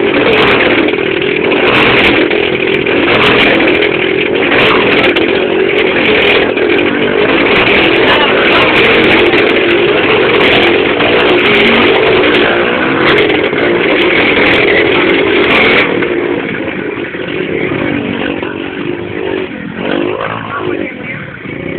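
Two motorcycles riding laps inside a globe-of-death cage, their engines revving hard in a loud, continuous din that eases off about three quarters of the way through.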